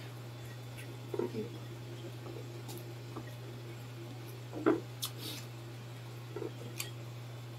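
Mukbang eating sounds: scattered short chewing and wet mouth sounds as crispy pork intestine is eaten by hand, with a few light clicks of fingers and food on a plate, the loudest a little past halfway. A steady low hum sits underneath.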